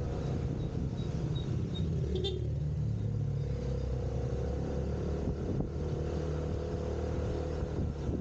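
Motorcycle engine running steadily while riding in traffic, with road noise and a continuous low rumble.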